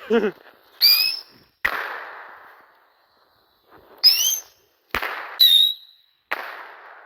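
Three small whistle-and-bang pyrotechnic rockets going off one after another: each gives a short rising whistle in flight, then a sharp bang that trails off in echo. The first goes up about a second in, the other two close together near the end.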